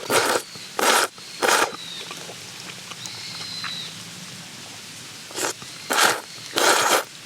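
A person slurping hot hotpot broth or noodles: three quick slurps, a pause, then three more.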